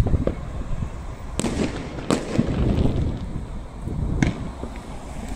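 Fireworks going off: several sharp bangs, the clearest about a second and a half, two and four seconds in, over a steady low rumble.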